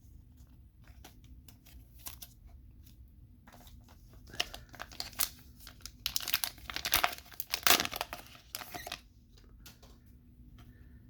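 Trading-card booster pack being torn open and its wrapper crinkled, starting about four seconds in after a few soft handling clicks and loudest near the end.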